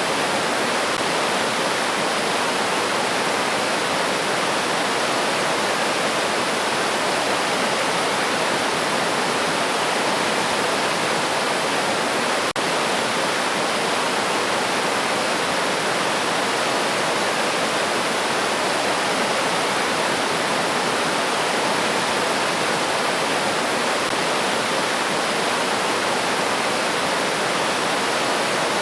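River water flowing as a steady, even rush, with one brief dropout about twelve seconds in.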